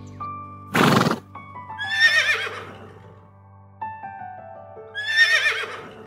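A horse whinnies twice, two wavering high calls about three seconds apart, after a short breathy burst about a second in. Soft piano music plays underneath.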